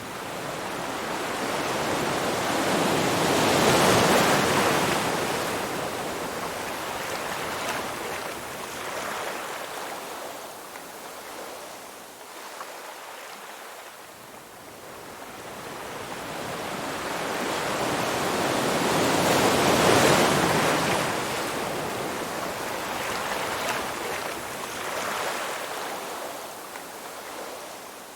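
Ocean waves breaking on a shore: two large waves swell to a crash, about 4 s and 20 s in, each followed by a long hissing wash that ebbs away.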